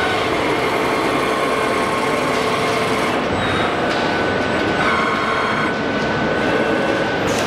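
Fully electric CNC tube bending machine running through a bending cycle: steady mechanical running noise with whining motor tones that change pitch every few seconds as its axes move.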